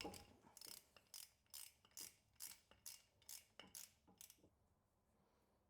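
Ratchet wrench being worked back and forth to loosen a fastener on a car's power steering pump, with about ten quick rasping clicks at roughly two strokes a second that stop about four and a half seconds in.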